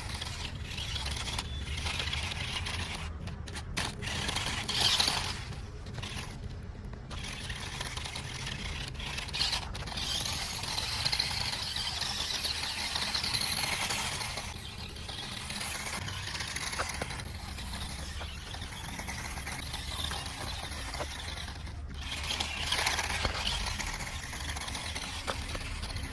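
Toy remote-control car running: its small electric motor and gears whirring, with scraping and rattling as it drives over the ground.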